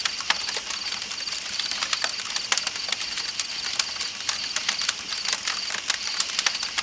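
Campfire crackling with irregular sharp pops, over night insects chirping in a steady high pulsed trill and a hiss of flowing river water.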